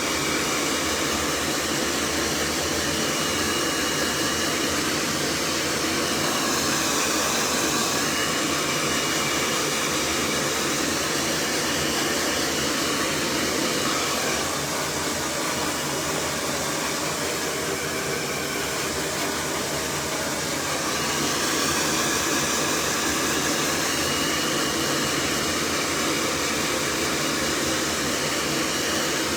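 Cloud Nine hair dryer running on full heat and its highest setting: a steady rush of air with a faint high whine, dipping slightly in level in the middle as it is moved around the head.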